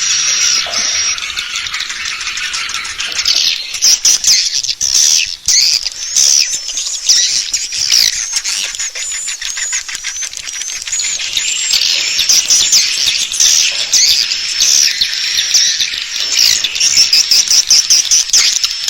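Swiftlet calls: many birds twittering at once in a dense stream of rapid, high-pitched chirps and clicks, the lure sound played to call swiftlets into a nest house.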